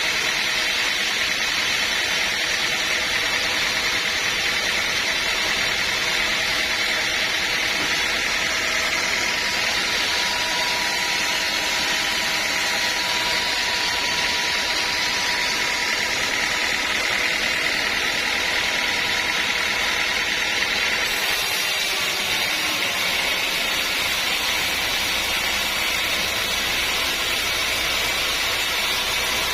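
Sawmill machinery running with a loud, steady noise, its tone shifting about two-thirds of the way through.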